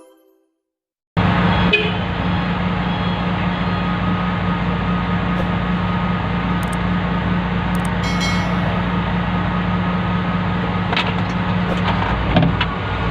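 Wheel loader's diesel engine running steadily, heard from inside the operator's cab, coming in suddenly about a second in. A few light clicks near the end.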